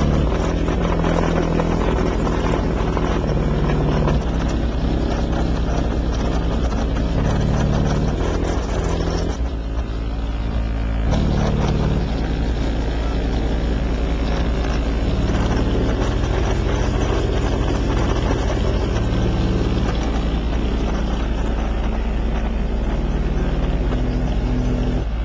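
Competition car audio subwoofers playing continuous deep bass at full power in an SPL endurance run, a constant heavy low rumble with shifting bass tones above it.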